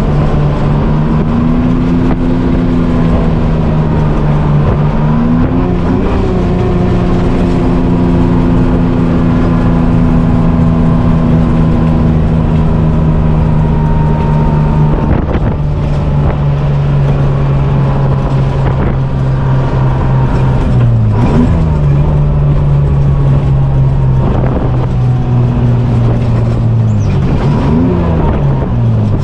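GMC Crackerbox semi's two-stroke Detroit Diesel engine running under way, a steady drone whose pitch dips and climbs again a few times, as with gear changes.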